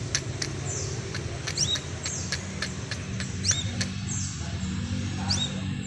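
Crimson sunbird calling: a rapid series of sharp, high chips, about three a second, broken twice by a quick rising whistle and a short lower note. A steady low hum runs underneath.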